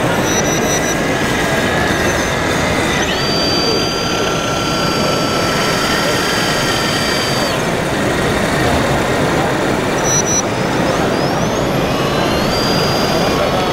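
High electric whine of RC model machines' motors, rising in pitch about three seconds in, holding steady, dropping off near eight seconds and rising again near the end, over the steady chatter of a crowd.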